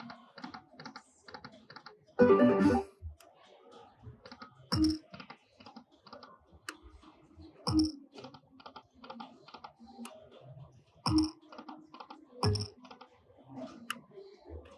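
Lightning Link slot machine spinning: rapid electronic ticking of the reels, with a thud and bright chime as each spin lands every few seconds, and a short loud burst of machine music about two seconds in.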